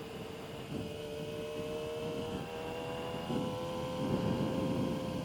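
Yamaha R6 sport bike's inline-four engine running at a steady speed while riding, its pitch rising slightly, over a low rumble of wind and road noise that gets louder about three seconds in.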